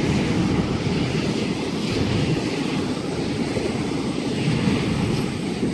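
Sydney Trains Waratah (A set) electric train passing through the station: a steady rumble of wheels on rail.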